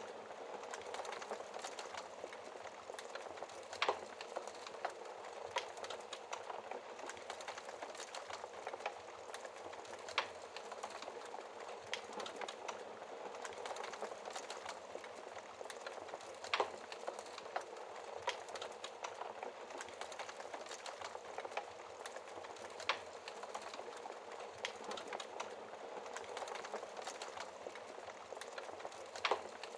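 Wood fire crackling steadily, with a constant hiss of many small crackles and a louder pop about every six seconds.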